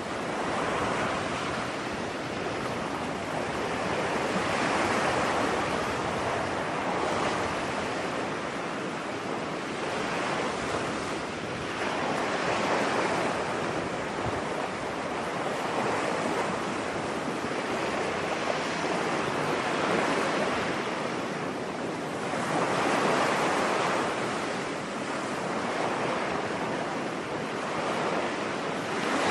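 Ocean waves breaking on a beach, a continuous rushing surf that swells and falls back every few seconds.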